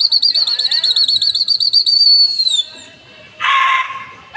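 A loud, high trilling whistle, warbling rapidly for about two and a half seconds and then sliding down in pitch: a pigeon keeper's whistle to a flock in flight. A short, rougher call follows about three and a half seconds in.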